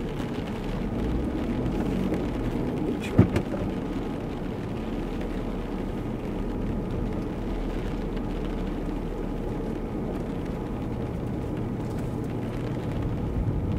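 Steady low rumble inside a car cabin, with one sharp knock about three seconds in.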